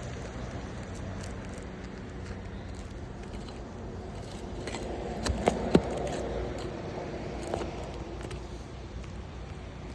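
A few sharp cracks and clicks from an aged, curled asphalt roof shingle being lifted and pried loose, three close together about halfway through and one more shortly after, over a steady low rumble.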